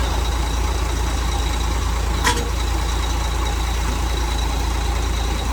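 Truck engine idling steadily as a low rumble, with one sharp click about two seconds in.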